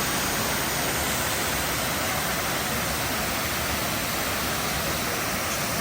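A steady rushing noise, even and unbroken, with no distinct events.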